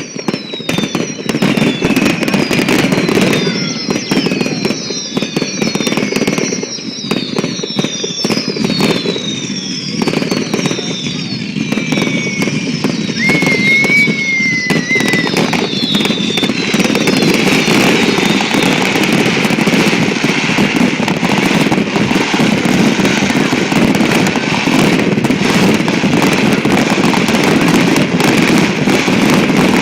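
Fireworks barrage with rapid, nearly continuous bangs and crackling that grow denser after the halfway point. A run of short falling whistles sounds through the first half.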